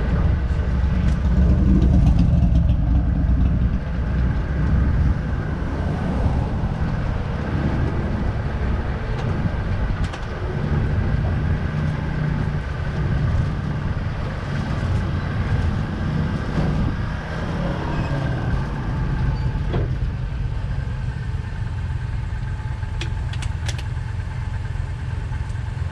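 A tram car's engine running steadily underway, a constant low rumble heard from aboard.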